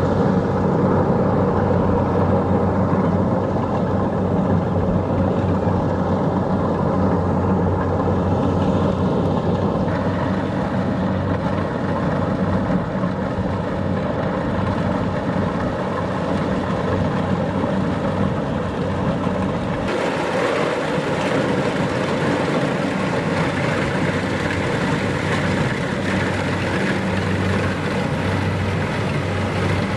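Kubota DC-70 Plus rice combine harvester running steadily, its diesel engine droning under the rush of the cutting and threshing machinery. The sound shifts abruptly about ten and again about twenty seconds in.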